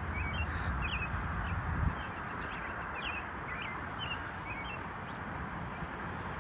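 Small birds chirping in short high notes, repeated every half second or so, over a steady rushing background noise. A low rumble under it stops about two seconds in.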